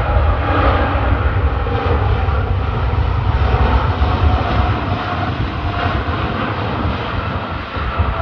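Jet airliner engines, loud and steady, with a deep rumble and faint whining tones.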